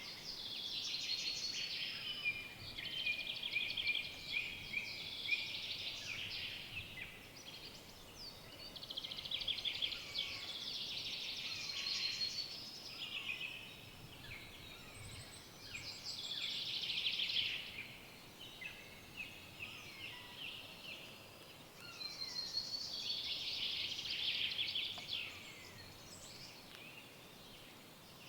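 Songbirds singing in a forest: quick, high trilling song phrases of a few seconds each, repeated several times with short pauses between, over a faint steady background hiss.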